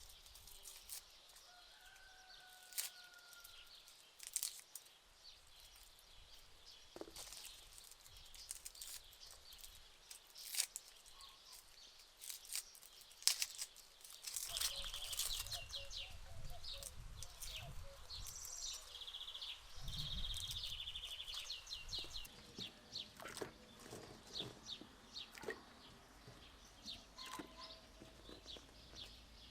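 Small birds chirping, with a couple of quick high trills in the middle, over scattered close clicks and rustles. A low rumble comes in for several seconds midway.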